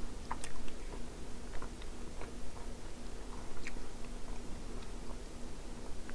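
A person chewing macaroni and cheese close to the microphone, with scattered small clicks and mouth smacks at an irregular pace. A faint low hum pulses on and off underneath.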